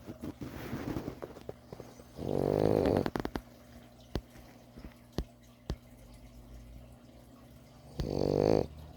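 French bulldog puppy snoring in its sleep: a soft raspy breath, then a loud, pitched snore about two seconds in and another near the end, each under a second long. A few small clicks fall between the two snores.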